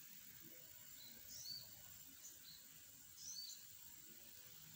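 Near silence with a faint background hiss, over which a small bird repeats a short high two-note chirp every second or so.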